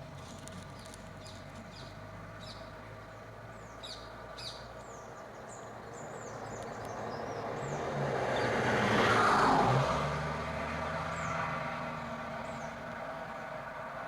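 A vehicle passing on the road, its noise swelling to a peak about nine seconds in and then fading, over a steady engine hum. Birds chirp throughout.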